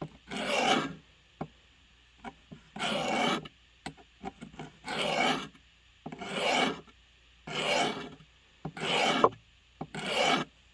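Blade edge being sharpened with slow, separate rasping strokes, seven of them, each about half a second long and about a second and a half apart. The edge still carries a nick in the middle.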